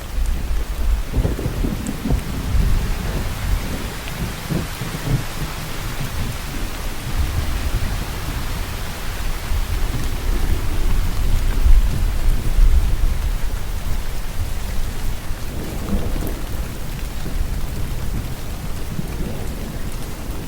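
Steady heavy rainfall with low rolling thunder rumbling underneath, the rumble swelling and fading a few times and strongest about halfway through.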